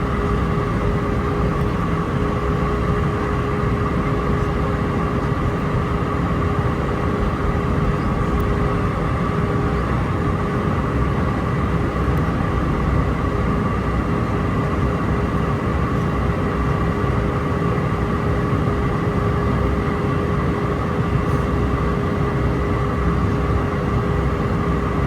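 Steady cabin noise inside an Airbus A319-131 airliner on approach: the constant drone of its IAE V2500 jet engines and the air rushing past the fuselage, a low rumble under a few steady whining tones. One of the tones drops out briefly about ten seconds in.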